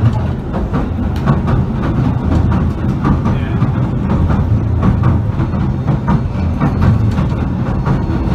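Southend Pier train running along the pier track, heard from inside the carriage: a steady low rumble with repeated clicks of the wheels over the rail joints.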